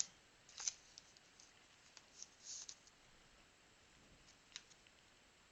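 Faint clicks and soft rustles of trading cards being handled and slid against each other, a few brief sounds scattered through otherwise near silence.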